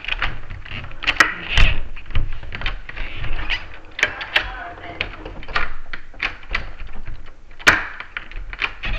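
Irregular metallic clicks and knocks of door lock hardware being worked, the bolt hitting the strike plate instead of seating because the strike is out of alignment. One sharper knock stands out near the end.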